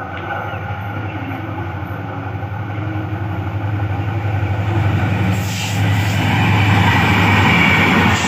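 Diesel-electric locomotive and express train running, with a steady low engine drone that grows louder as the train draws near. From about five seconds in, a broad rush of wheels and coaches joins in.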